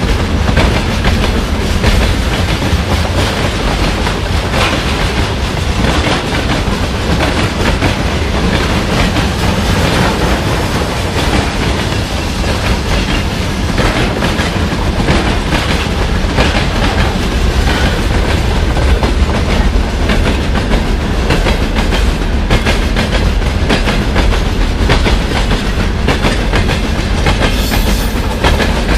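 Freight train wagons rolling past: open gondolas and flatcars with steel coils, their wheels rumbling and clattering steadily over the rail joints.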